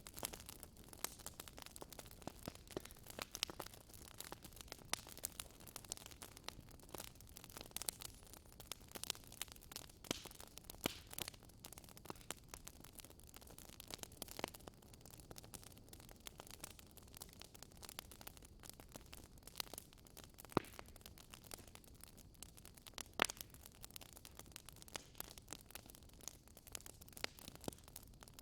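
Wood fire in a fireplace crackling, with irregular sharp pops and snaps over a faint steady hiss; a few louder pops stand out, the loudest about two-thirds of the way in.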